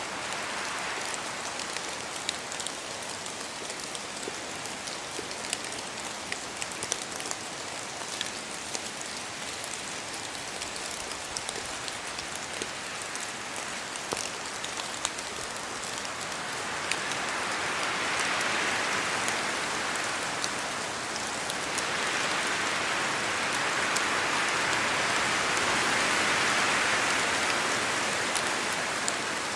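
Steady rain in a forest, with many separate drops pattering down from the trees. The rain swells louder twice in the second half.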